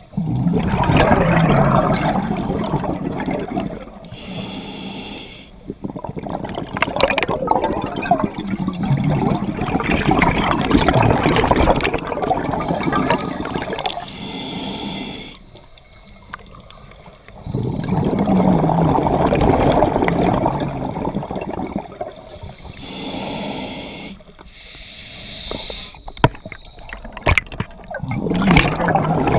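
Scuba diver breathing underwater through a regulator: long rushes of exhaled bubbles alternating with shorter hissing inhalations, about four breaths in all.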